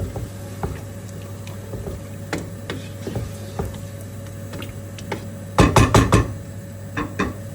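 A spoon stirring chicken and masala in a cooking pan, with scattered clicks of the spoon against the pan and a short cluster of loud knocks a little past halfway, over a steady hum.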